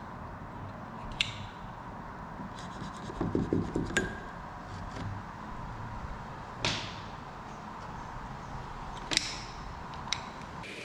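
Handwork on an old wooden sash window as the old sash cord is taken off its weight: a handful of separate sharp clicks and knocks, with a short stretch of rubbing about three seconds in.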